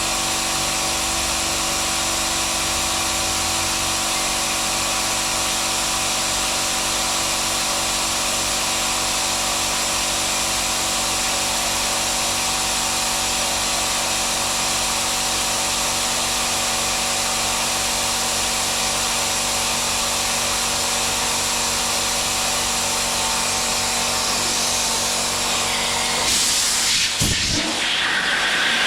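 A power tool running steadily at one even speed with a constant whine and hiss. The sound changes and breaks up near the end.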